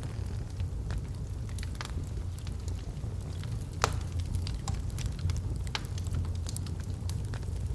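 Wood fire burning in a fireplace: a steady low rumble of flames with irregular crackles and pops from the burning logs, one sharper snap about four seconds in.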